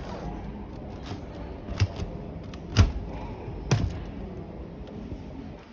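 Three sharp thuds about a second apart, with a fainter knock just before them, over steady background noise.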